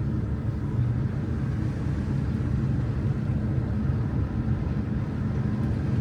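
Car driving at a steady speed: a steady low rumble of engine and tyre road noise.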